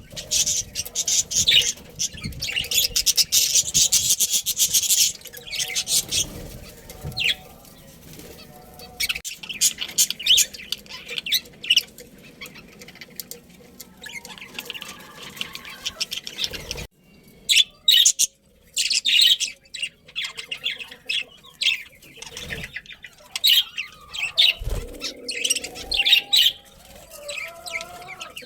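Budgerigars chirping and chattering in quick, high bursts, with some wing flapping.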